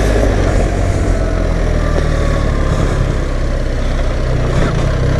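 BMW R 1300 GS's boxer-twin engine running steadily while riding a rough dirt road, with a constant rush of wind and road noise over it.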